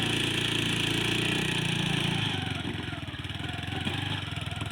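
Vehicle engine running; about two seconds in its note eases off to a quieter, evenly pulsing beat.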